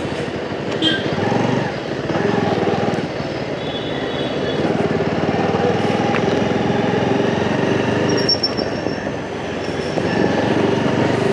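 Riding noise on a moving motorcycle in city traffic: engine, tyre and wind noise with other vehicles' engines around it, steady and fairly loud throughout.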